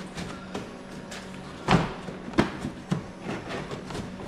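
Plastic inner fender liner being pulled and worked out of the wheel arch: a few sharp knocks and clatters, loudest about two seconds in, over a steady low hum.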